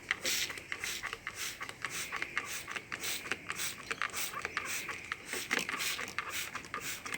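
Hand spray bottle squirting water in quick repeated hissing bursts, two to four a second, wetting a freshly laid plaster-and-sand mix.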